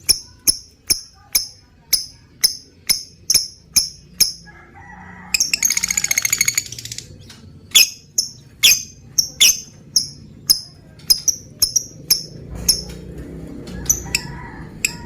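Lovebird calling: sharp, high chirps repeated about two to three times a second, broken about five seconds in by a rapid rattling chatter lasting under two seconds, then the chirps resume.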